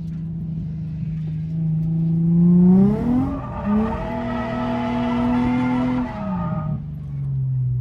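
Car engine revving: its note climbs about three seconds in, dips briefly, holds high for about two seconds, then falls back to a lower steady note near the end. There is a hiss of tyre noise while the revs are high.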